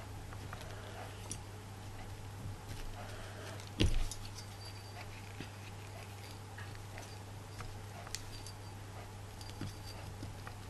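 Faint clicks and small taps of craft materials being handled while a bead is glued in place, with one louder knock about four seconds in, over a steady low hum.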